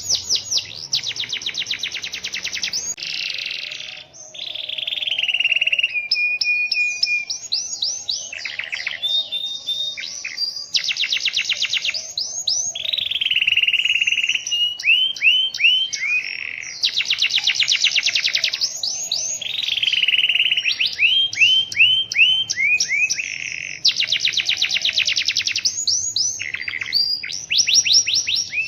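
Domestic canary singing a long, nearly unbroken song of fast trills and rolls mixed with quick rising and falling whistled notes. The song breaks briefly about four seconds in.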